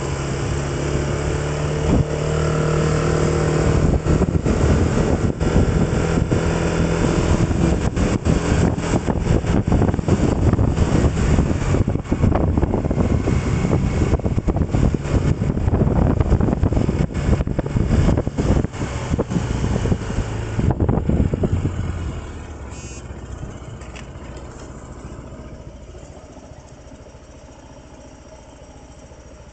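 A road vehicle's engine running while under way, with rough, gusty noise over it. About two-thirds of the way through the sound drops sharply and then keeps fading as the vehicle slows.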